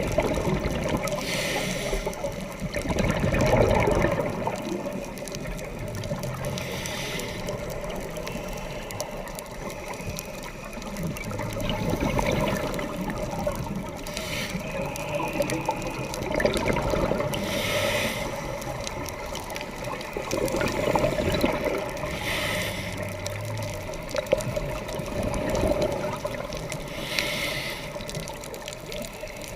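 Scuba diver breathing through a regulator underwater: exhaled air bubbles out in a short rush about every four to five seconds over a steady underwater hiss.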